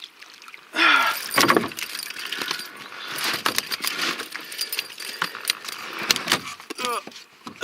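A rattling, clicking jingle of handling noise begins about a second in and carries on to the end, as a freshly caught small trout is landed and handled with the fishing tackle.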